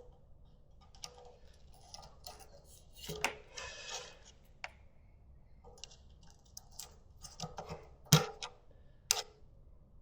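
Scattered light clicks and metallic knocks of dirt bike parts being handled and fitted by hand, with a sharper knock about eight seconds in and another about a second later.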